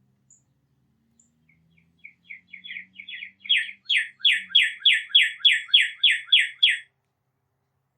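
A songbird calling a run of about a dozen short, quickly repeated notes that start soft, swell to full loudness and keep an even pace of about three a second before stopping.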